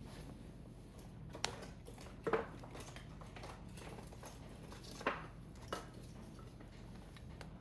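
Firewood burning, with a few sharp pops and crackles, the loudest about two seconds in, over a low steady background.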